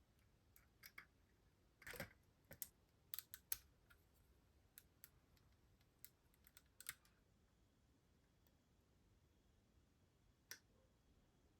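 Faint, irregular light clicks and taps of small tools and plastic model-kit parts being handled, a dozen or so scattered through the first seven seconds, then a quiet stretch broken by one more tap near the end.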